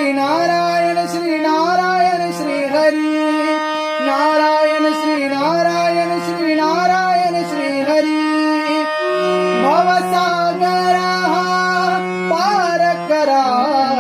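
Marathi devotional bhajan music: steady held harmonium-like tones under a wordless, gliding vocal melody with light percussion, leading into the sung verse.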